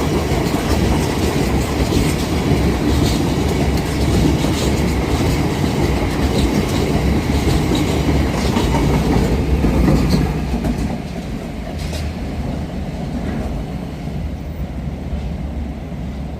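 A train running past on the rails, wheels clattering over the rail joints with a low, steady rumble; about ten seconds in it drops off and fades as the train moves away.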